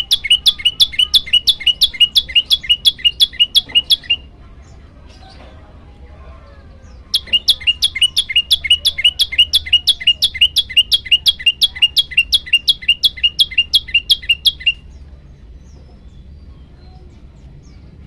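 Olive-backed tailorbird (prenjak lumut) giving two long runs of loud, rapidly repeated high notes, about five a second, each note falling in pitch. The first run stops about 4 s in, and the second starts about 7 s in and stops about 15 s in.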